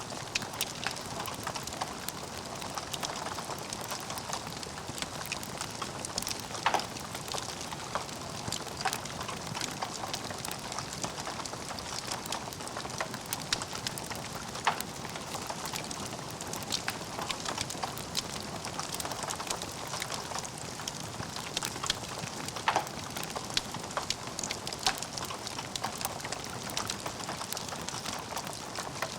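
Wood fire in a fireplace crackling steadily, a dense patter of small crackles with a louder pop every few seconds.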